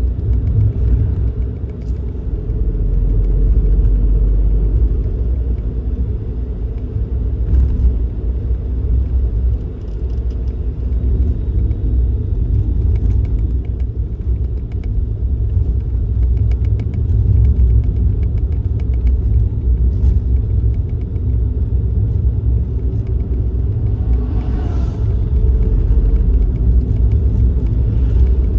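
Suzuki Kei Works kei car on the move, a steady low rumble of engine and road noise. Near the end a brief higher-pitched sound swells and fades.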